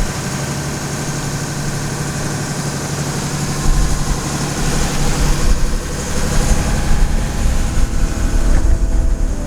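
Sailboat's inboard engine running steadily at a constant speed, a low even hum, with wind buffeting the microphone from a few seconds in.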